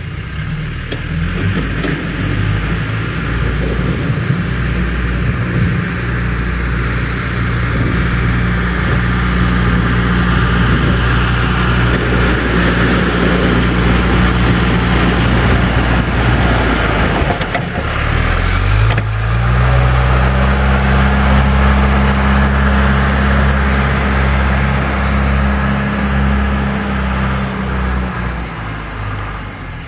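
John Deere 310E backhoe loader's diesel engine working under load as the machine scrapes ice, with a steady grinding noise under the engine. The engine dips in pitch past halfway, revs up and holds higher, then eases off near the end.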